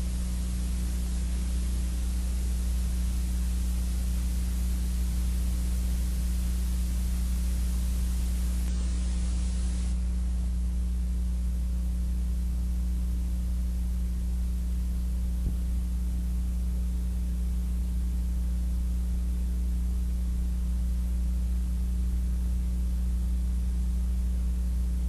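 Steady electrical mains hum with a constant hiss over it, the hiss dropping slightly about nine seconds in.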